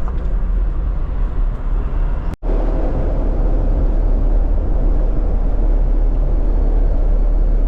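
Steady low rumble of a vehicle being driven, engine and tyre noise heard from the cab. The sound cuts out for an instant about two and a half seconds in, then resumes.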